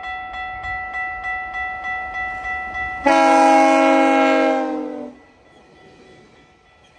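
A crossing warning bell rings rapidly, about two to three strokes a second. About three seconds in, GO Transit cab car 379's multi-chime air horn sounds one loud blast of about two seconds, its pitch sagging slightly as it ends. The bell is then only faint.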